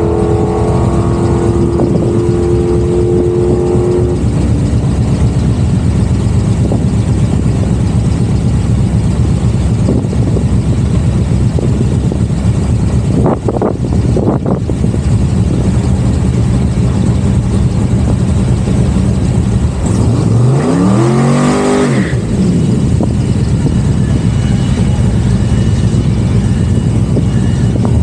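A car engine runs steadily and loudly throughout. A steady two-note tone sounds over it for the first few seconds. About twenty seconds in, an engine revs sharply up over two seconds and then drops away.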